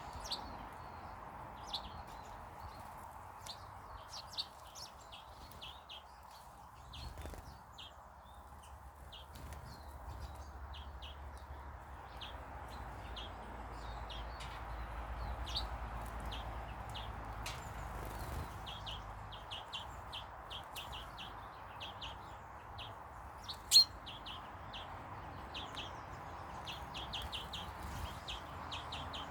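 Birds chirping: many short, high chirps repeated throughout over a steady background hum. One sharp click about two-thirds of the way through is the loudest sound.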